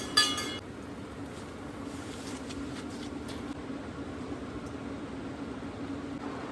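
A titanium spoon clinks and rings against a metal mug a few times in the first half second as coffee is stirred. Then a diesel heater's steady low hum carries on alone.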